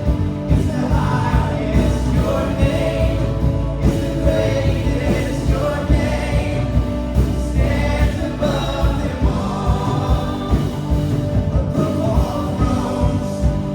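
Live worship band playing with a group of singers, a slow steady beat under sustained sung lines.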